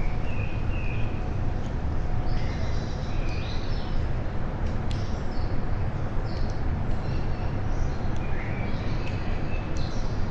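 Several small birds chirping and calling in short, repeated phrases over a steady low rumble, with a few sharp ticks in between.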